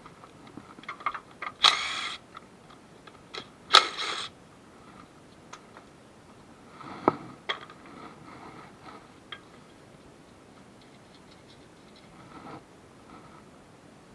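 Metal tools clicking and clinking during work on a car's engine bay, with two short louder scraping bursts about 2 and 4 seconds in and a sharp knock about 7 seconds in.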